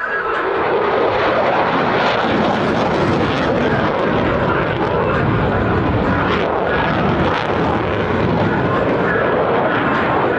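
F-16 Fighting Falcon fighter jet's engine noise during a low display manoeuvre, loud and steady after swelling up over the first second.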